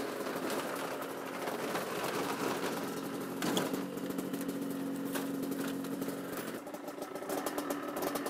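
Derbi Senda two-stroke single with an 80 cc top end idling cold while it warms up after a long time unused. A sharp metal clank comes about three and a half seconds in as the garage door is locked, and about six and a half seconds in the idle turns rougher and more uneven.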